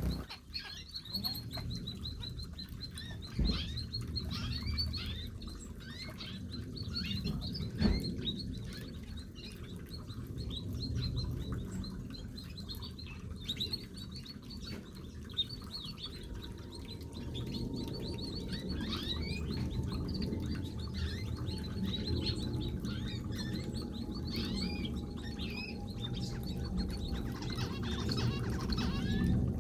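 A mixed flock of small aviary birds chirping and twittering, many short overlapping calls, with two sharp knocks about 3.5 and 8 seconds in.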